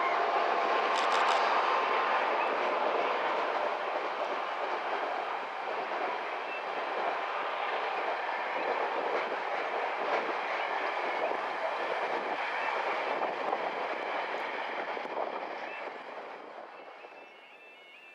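Container freight train's wagons rolling past on the track, a steady rumble of wheels on rail that fades away near the end as the last wagons go by.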